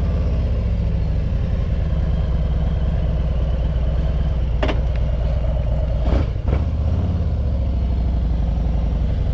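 A Harley-Davidson Road Glide Limited's V-twin running steadily at idle just after starting, through Vance & Hines Eliminator 400 slip-on mufflers, heard from a microphone inside the rider's helmet. A few short clicks come about four and a half and six seconds in.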